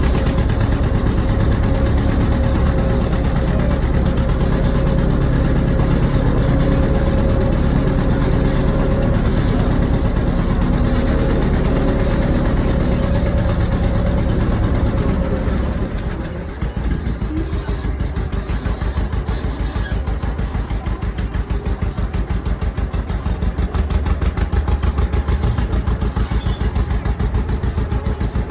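Tractor engine running steadily under load; about halfway through the engine note drops and settles into a lower, evenly pulsing beat.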